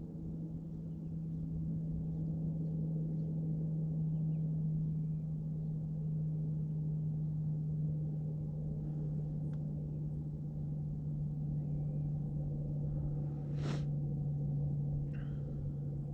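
Steady low engine drone holding one pitch throughout, with a few faint bird chirps and a single sharp knock about fourteen seconds in.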